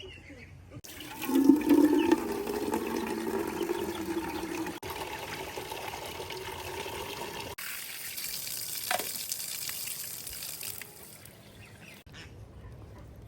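Water running and splashing, heard as several short cut-together shots, the sound changing abruptly at each cut.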